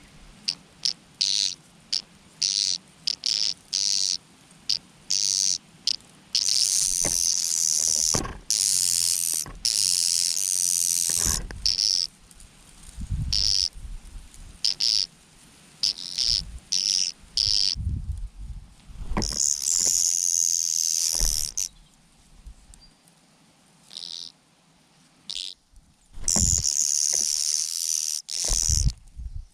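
Mynas giving shrill, high food-begging calls: quick separate calls at first, then long unbroken stretches of calling, broken by short quiet gaps. Low thumps come in among the calls.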